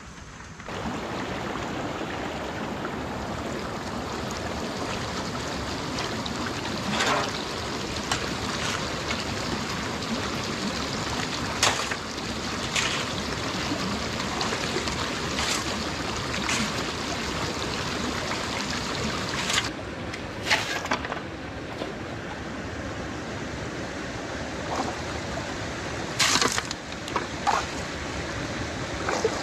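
Steady rush of running water, with scattered clicks and knocks.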